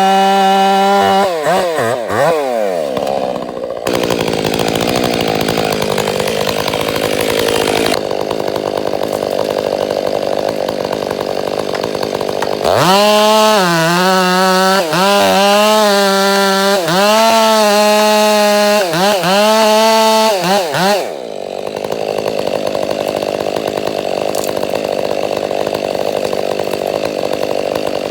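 Gas chainsaw at full throttle, let off about a second or two in so its whine falls away. About thirteen seconds in it revs up again and cuts, its pitch dipping and recovering several times under load, then drops back to a lower steady run about eight seconds later.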